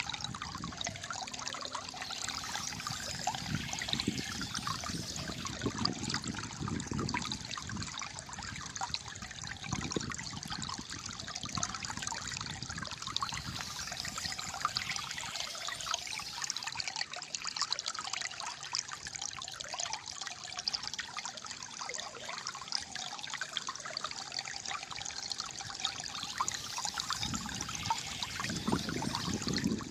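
Shallow water flowing and gurgling steadily over stones, with many small trickling splashes and deeper gurgles swelling up around six seconds in and again near the end.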